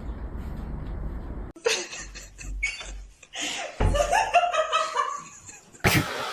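Low rumbling noise that cuts off abruptly about a second and a half in, then a person laughing in broken bursts for about four seconds.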